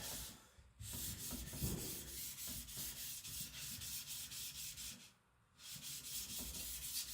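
Knife blade of very hard AEB-L stainless steel (about HRC 66) stroked back and forth on a whetstone: a steady grinding scrape in quick, regular strokes, pausing briefly twice.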